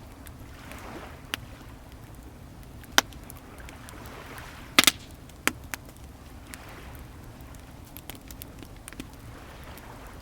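Wood bonfire crackling, with scattered sharp pops; the loudest is a quick double pop near the middle. Behind it, waves wash in and out on the shore in soft swells every few seconds.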